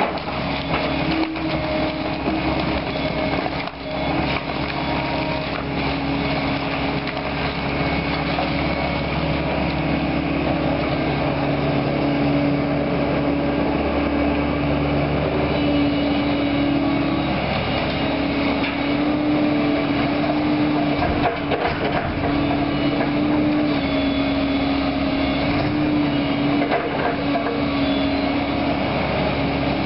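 Diesel engine of Caterpillar heavy demolition equipment running steadily under load, its pitch shifting a little as the hydraulics work, with occasional knocks of debris being handled.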